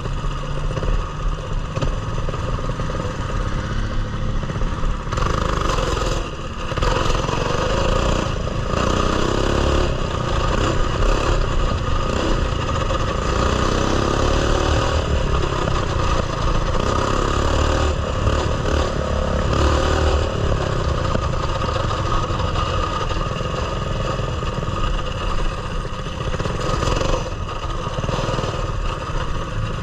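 Coleman mini bike's small single-cylinder four-stroke engine running steadily as the bike is ridden, with the frame clattering over rough trail at times.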